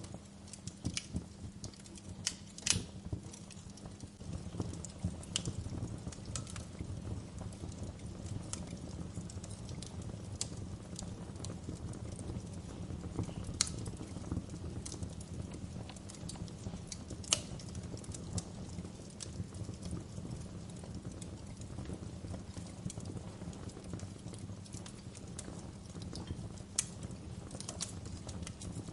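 Wood fire crackling: irregular sharp pops and snaps, a few of them louder, over a steady low background.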